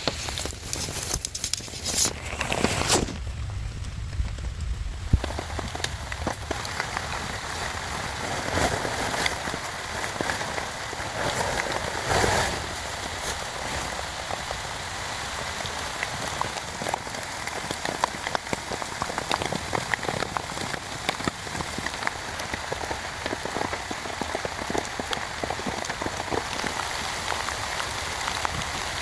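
Heavy rain falling steadily, many separate drops tapping on a close surface, with a few louder knocks in the first few seconds.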